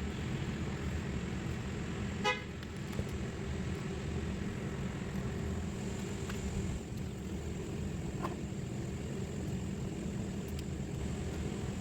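Steady low rumble with one short horn toot about two seconds in, and a few faint clicks.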